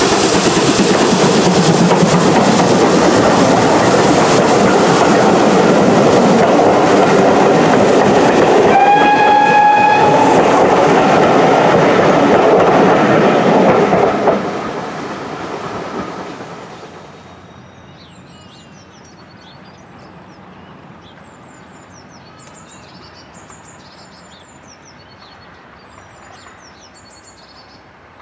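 A heritage train passes close by, running loud and steady, with one short whistle blast about nine seconds in. It fades away after about fourteen seconds.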